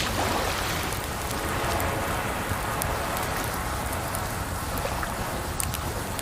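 A campfire crackling, with a few sharp pops, over a steady rush of running water that swells at the start.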